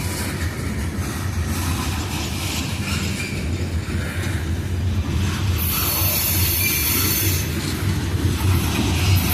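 Coal train cars rolling past with a steady low rumble of wheels on rail. A high-pitched wheel squeal joins in at about five and a half seconds and stops two seconds later.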